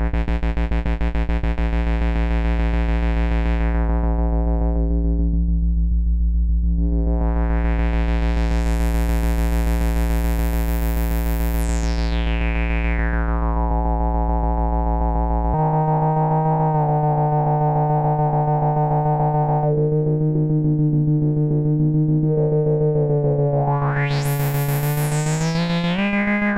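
ADDAC105 4 Voice Cluster eurorack module droning as a dense, buzzy stack of synthesizer tones, its brightness swelling and falling away in slow sweeps. About halfway through, the pitches of the cluster shift abruptly to a new chord.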